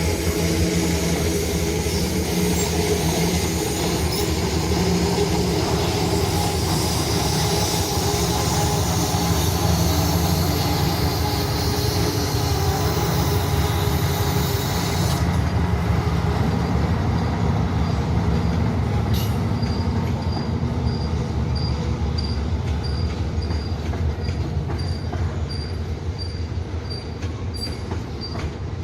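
A diesel-hauled freight train passing close by, the locomotives' engines running under the noise of wheels on rail and squealing, then the wagons rolling past with a steadier, duller rumble after about halfway. In the second half a faint high beep repeats a little more than once a second.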